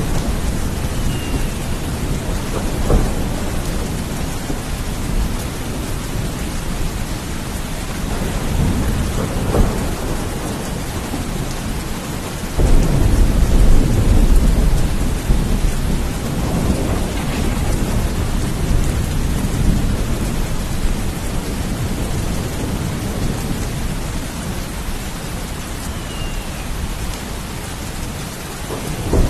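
Steady heavy rain with thunder rumbling throughout. There is a sharper crack about three seconds in and another near ten seconds, and a louder, deep roll of thunder starts about twelve seconds in and lasts a couple of seconds.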